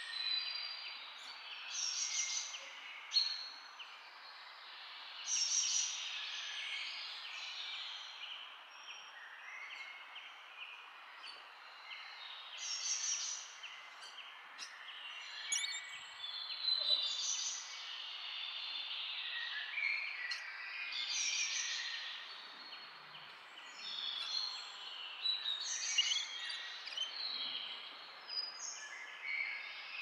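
Birds chirping and calling, many short calls one after another, over a steady background hiss.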